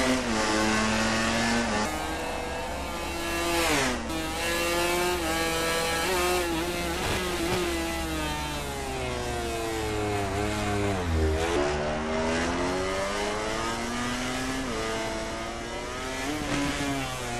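MotoGP racing motorcycle engines at full throttle, climbing in pitch and dropping sharply at each upshift. Around ten seconds in they wind down through the downshifts, then pick up again.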